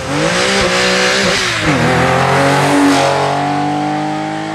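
Rally car engine revving hard and climbing in pitch, then dropping sharply about two seconds in, as at a gear change or lift. It then pulls again with a steady, slowly rising tone.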